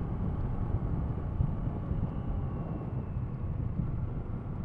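Kawasaki ER6-F's parallel-twin engine running at steady revs while riding, under a steady low rush of wind and road noise on the camera microphone.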